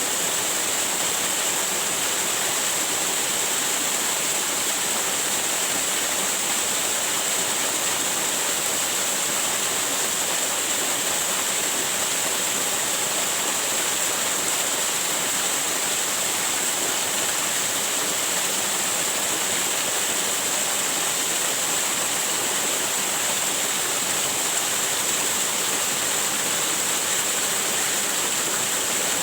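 Waterfall: falling water rushing in a steady, unbroken roar of splashing noise.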